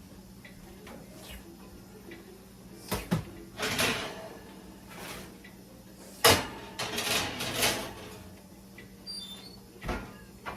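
Oven door and metal racks being handled as a pan goes back into the oven: a few sharp knocks, the loudest a clack a little after the middle, with short spells of scraping and rattling between them.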